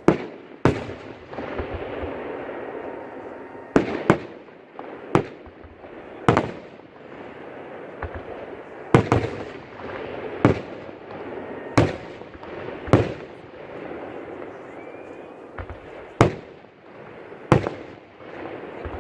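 Fireworks display: aerial shells bursting with sharp bangs, about a dozen of them spaced a second or two apart, a few in quick pairs, over a steady noisy background.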